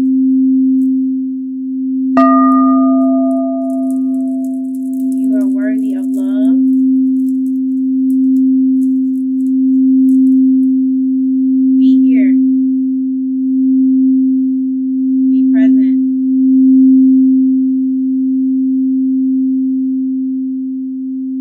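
Singing bowl for a root chakra session played by rimming, giving one continuous low hum that slowly swells and fades. About two seconds in, a single struck tone rings out higher and dies away over a couple of seconds.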